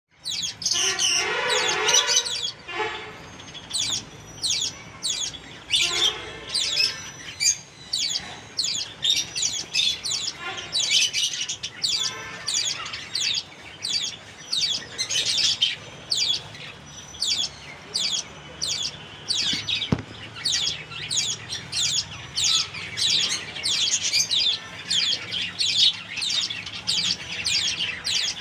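Java sparrows chirping: a long run of short, high chirps at about two a second, with a harsher, lower call in the first few seconds.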